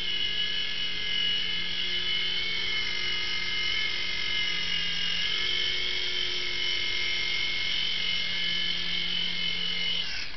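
Small electric toy RC helicopter's rotor motors whining steadily in flight with a slightly wavering pitch, then winding down and cutting out near the end as it sets down on a nearly flat battery.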